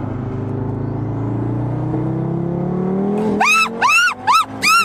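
Audi TT RS turbocharged five-cylinder engine under hard acceleration, its note rising steadily, heard from inside the cabin. About three seconds in, a woman in the passenger seat breaks into a rapid run of short, high screams of fright, louder than the engine.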